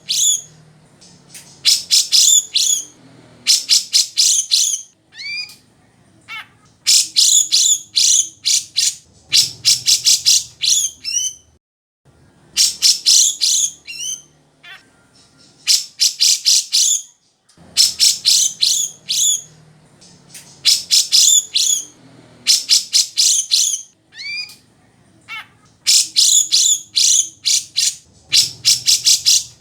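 Cucak jenggot (grey-cheeked bulbul) singing loudly: clusters of rapid, sharp chattering notes a second or two long, separated by short pauses and followed by a few single upward-sweeping notes.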